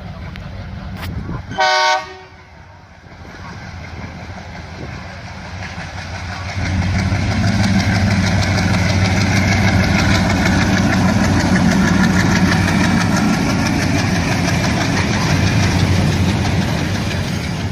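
A short, loud horn blast from an ALCo WDM-3D diesel locomotive about two seconds in, over its diesel engine running. From about six seconds in the engine grows louder and stays loud.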